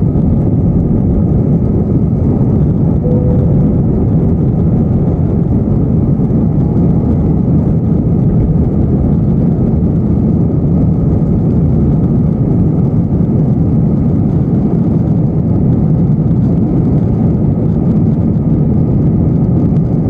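Airbus A321 jet engines and airflow during the takeoff climb: a loud, steady low rumble that holds unchanged.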